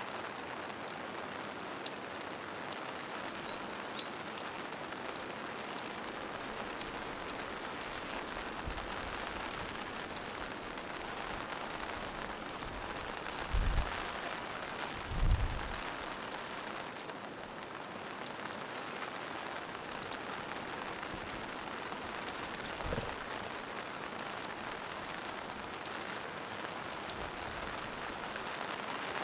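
Steady rain falling in a forest, with many small drops ticking on leaves and rocks. There are two short, low thumps about halfway through and a fainter one later.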